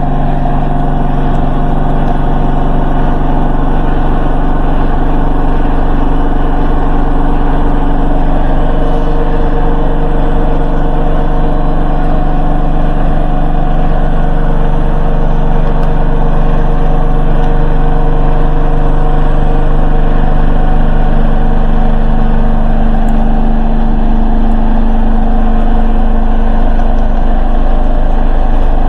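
Hoover H-wash 300 Plus washing machine on its spin cycle: a loud, steady motor-and-drum whine, still gradually speeding up.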